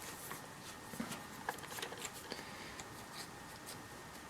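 Faint, scattered light clicks and ticks of hands and a small tool working at a bicycle's drop-bar end plug.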